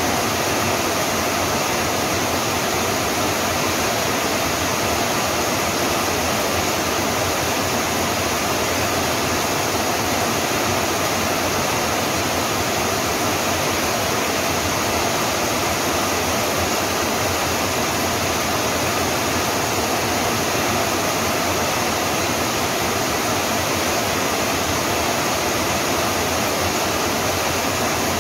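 Steady rain, an even unbroken hiss with no single drops, thunder or other sounds standing out.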